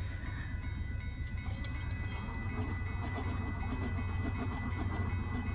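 Train passing: a steady low rumble with faint, regular clicking of wheels over the rails growing in during the second half.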